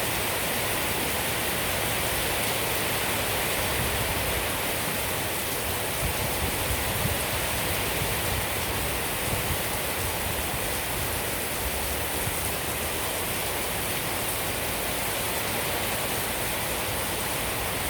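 Steady rain falling: an even, dense hiss.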